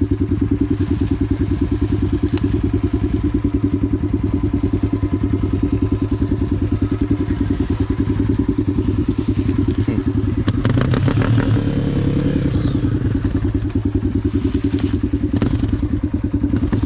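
Dirt bike engine running steadily at low speed with an even, fast pulse. It changes briefly around the middle, with a few knocks and clatter there and again near the end.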